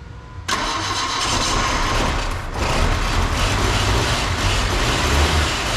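A car engine running steadily, coming in suddenly about half a second in.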